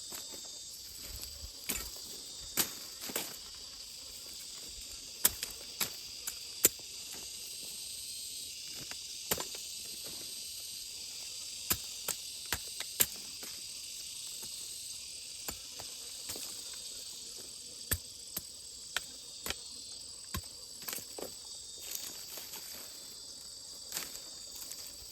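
A steady high-pitched chorus of insects, crickets or cicadas, runs throughout. Scattered sharp clicks and knocks come at irregular intervals and are the loudest sounds.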